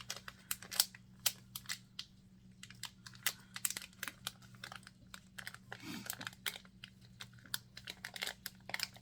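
Packaging and small items being handled by hand: irregular light clicks, taps and crinkling of wrappers as the pieces are sorted.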